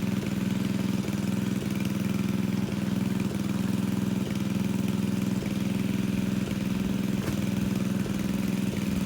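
Engine of a water pump running steadily at an unchanging speed, pumping water out of a fish pond.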